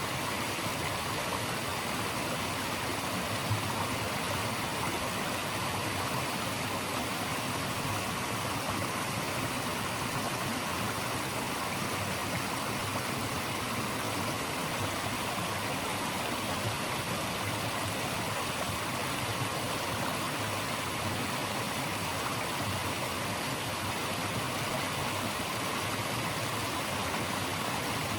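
Steady, even rush of flowing water from a stream, unchanging throughout.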